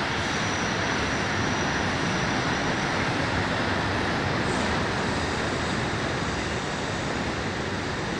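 A train of vintage passenger coaches rolling slowly along the track behind a steam locomotive: a steady, even rumbling rush of wheels on rails.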